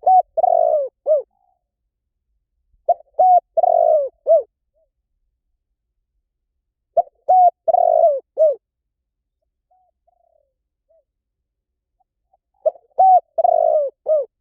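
Spotted dove cooing: four repeated phrases a few seconds apart, each of two short coos, a longer rough middle note and a closing coo. A few faint, softer notes come between the third and fourth phrases.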